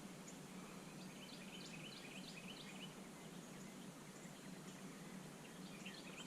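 Faint outdoor ambience with birds chirping in the background: a series of short, high chirps over a steady low hum.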